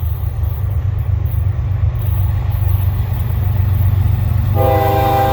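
Approaching Norfolk Southern diesel freight locomotive with a deep low rumble, then its air horn starts sounding a steady multi-note chord about four and a half seconds in and holds.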